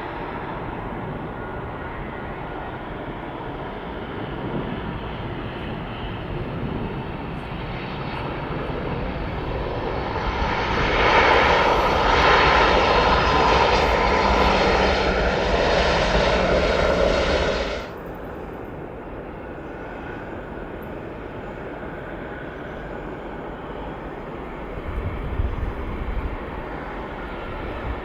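Airliner engines at an airport growing louder as an aircraft passes, loudest for about six seconds with a steady whine over the rumble, then cutting off suddenly about two-thirds of the way through, leaving a fainter steady engine rumble.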